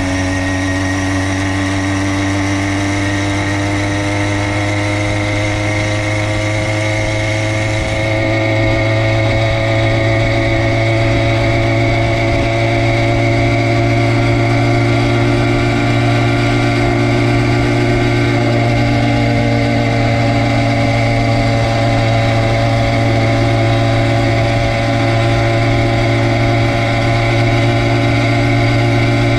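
Motorized bicycle's stock BBR Tuning kit engine running hard during a speed run, its pitch climbing slowly over the first several seconds and then holding nearly steady at speed.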